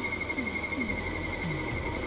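Wood lathe running, a steady high whine over a low rumble, with a few short falling low tones.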